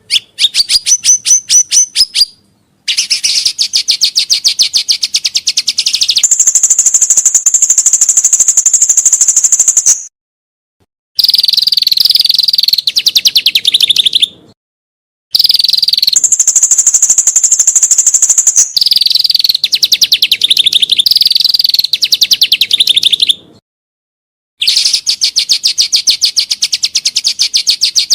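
Songbird training recording (masteran): a bird sings fast, loud trills of rapidly repeated notes in about five bouts. Some bouts are held on a high, even note, and others drop to lower, harsher rattling notes. The bouts are separated by abrupt gaps of dead silence where the recording has been cut together.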